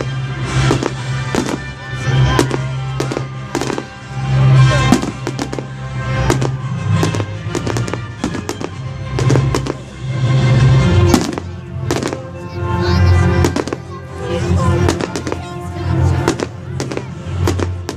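Fireworks going off, with many sharp bangs and crackles in quick succession, over background music.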